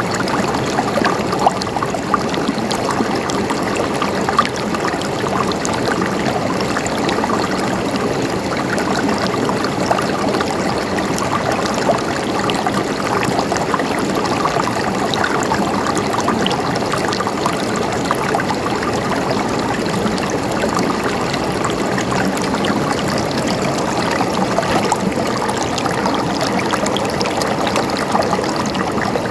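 Water flowing and gurgling steadily, like a stream, with small scattered splashes and drips.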